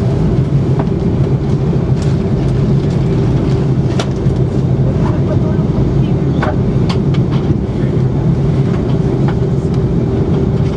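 Airbus A330-300 cabin noise on the ground before takeoff: a steady engine and air-conditioning hum with scattered short knocks and rattles.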